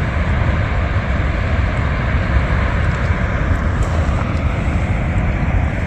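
Steady rushing of water pouring through a dam spillway, with a heavy low rumble underneath.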